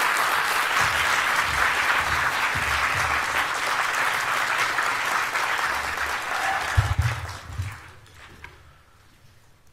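A large audience applauding, dense and steady, then dying away about seven to eight seconds in, with a couple of dull thumps as it fades.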